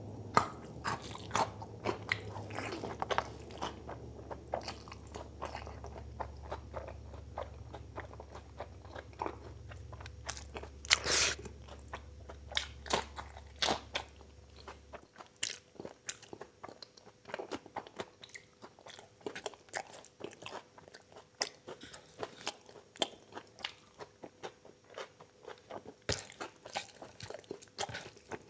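Close-miked eating: a man bites and chews a mouthful of curry-soaked chow mein, mutton and fresh coriander, giving many short wet clicks and crunches. A low background hum cuts off about halfway through.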